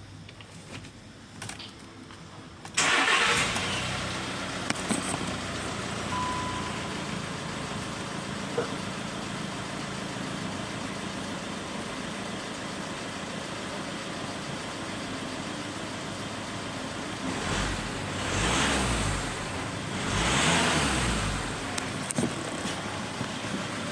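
VW Crafter van engine starting about three seconds in, then idling steadily. It is blipped twice near the end, each time rising and falling back to idle.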